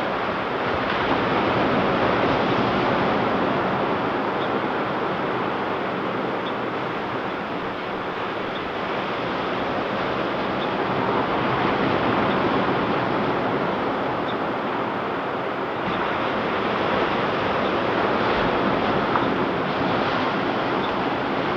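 Ocean surf washing onto a beach: a continuous rush of breaking waves that swells and eases every several seconds.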